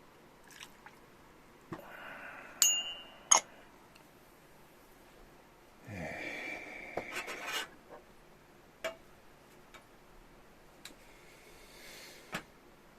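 Light clinks and knocks of tableware being handled: two sharper ringing clinks about three seconds in, a longer rustling stretch around the middle, and a few single taps later.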